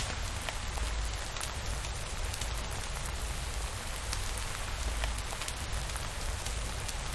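Steady rainfall pattering on a surface, with scattered sharp drop ticks over an even hiss and a constant low rumble underneath.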